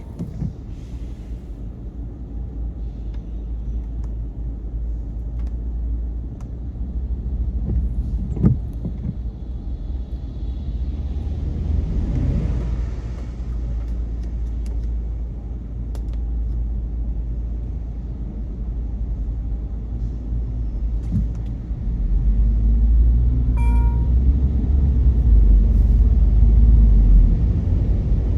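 Car driving on a rain-wet road, heard from inside the cabin: a steady low rumble of tyres and engine that grows louder about two-thirds of the way in. A short electronic beep sounds shortly after the rise.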